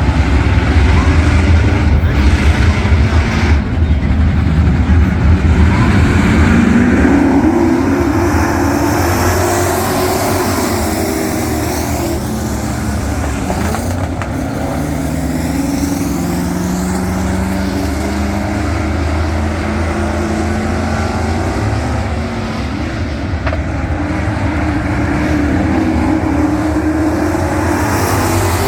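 A pack of dirt-track race trucks running at speed, their engines rising and falling in pitch as they accelerate and lift around the track. The sound is loudest over the first several seconds, then drops a little.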